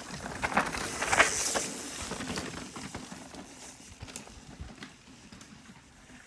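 Mountain bike riding a dirt trail: knobby tyres crunching and skidding on loose dirt, with the bike's chain and frame rattling. Loudest about a second in, then fading away.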